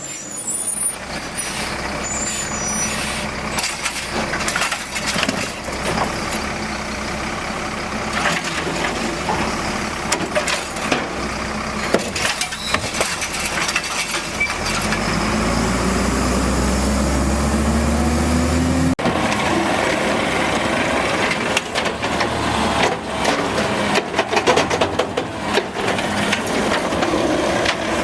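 Automated side-load garbage truck at work: diesel engine running and revving up, rising in pitch for a few seconds, with repeated knocks and clanks. The sound changes abruptly about two-thirds of the way through.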